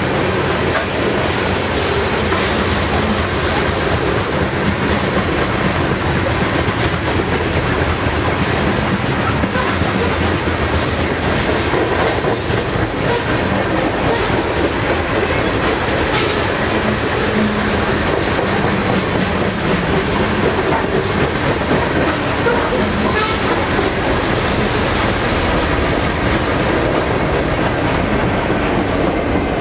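Freight train of coal hopper cars rolling past at close range, a steady rumble with the wheels clicking over the rail joints.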